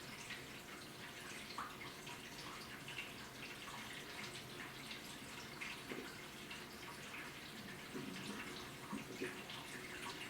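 AQUA washing machine partway through its cycle: water splashing and dripping inside the tub, with many small irregular splashes over a faint steady hum.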